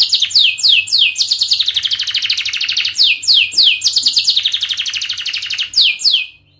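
Domestic canary singing a long, continuous song of fast, tightly spaced trills, broken by steep downward-sweeping notes. The song stops abruptly near the end.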